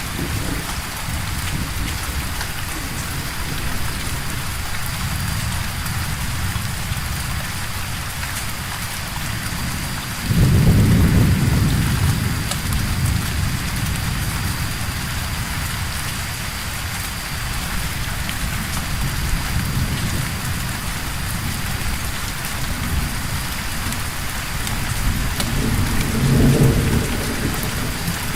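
Steady rain with low rolls of thunder. A louder thunder rumble breaks in about a third of the way through, and another comes near the end.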